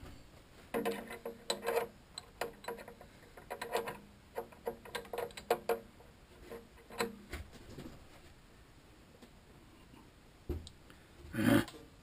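Irregular light metallic clicks and taps from handling metal parts and hand tools at the bench, each with a brief ring. They come in a quick run through the first half and then scattered, with one louder knock near the end.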